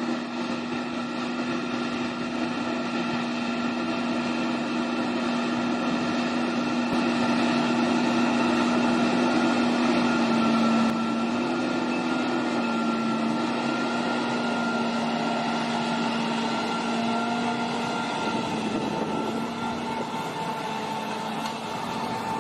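A machine's engine running steadily: a constant droning hum over a rushing noise, its pitch dipping slightly a little after halfway.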